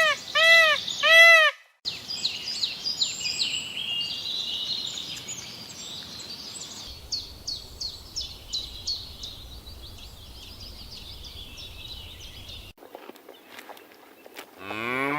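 A farm animal gives a quick run of short, arched, pitched calls that stop about a second in. Then many small birds chirp in quick, high, falling notes for about ten seconds. Near the end a cow starts a long, loud moo.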